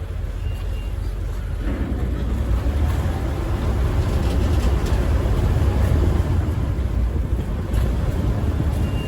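River ferry's engine running with a steady low rumble, growing a little louder about two seconds in, with wind buffeting the microphone.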